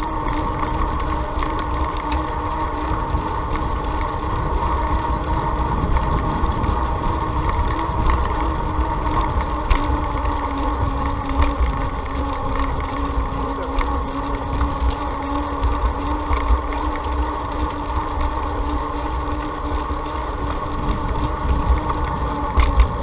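Wind buffeting the microphone of a moving bicycle rider, a heavy low rumble under a steady whine at two pitches, with a few faint clicks.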